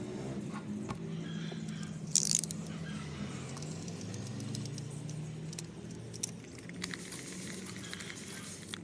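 Small metal objects jingling and rattling, with a sharp clatter about two seconds in and a run of clicks near the end, over a steady low hum.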